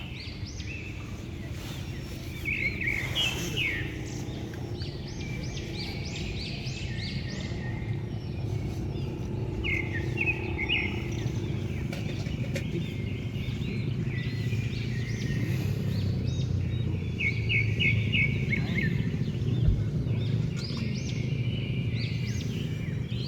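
Small birds chirping and trilling again and again, some in quick runs of notes, over a steady low rumble.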